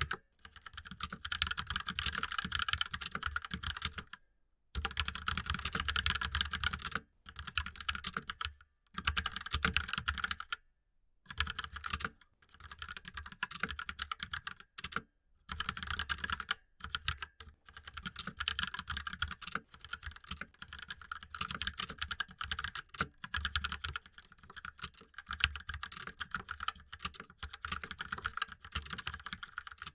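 Fast typing on a laptop keyboard: dense runs of quick key taps lasting a few seconds each, broken by brief pauses.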